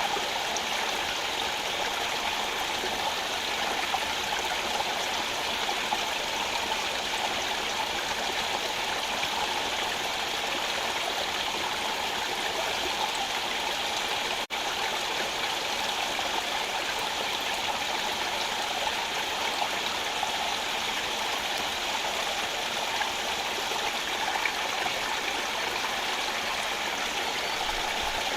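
A rocky rainforest stream rushing steadily over stones, an even hiss of running water with a momentary break about halfway through.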